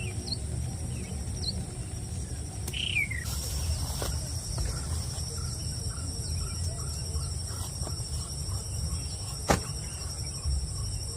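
Outdoor nature ambience: a steady high-pitched insect drone throughout, with a few short falling bird chirps near the start and about three seconds in, over a low wind rumble. A single sharp click about nine and a half seconds in.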